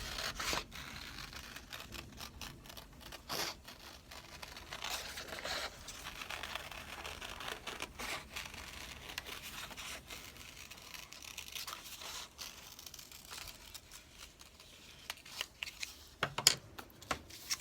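Scissors snipping through paper, a run of short irregular cuts with paper rustling as a circle is cut out.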